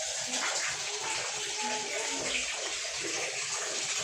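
Water running steadily from a tap, used to rinse dirt out of a washing machine's clogged drain valve parts.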